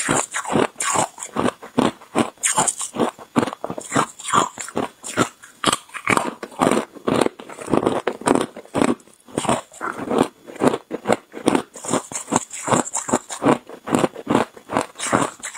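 Hard clear ice being bitten and chewed close to the microphone: a continuous run of loud, sharp crunches, several a second.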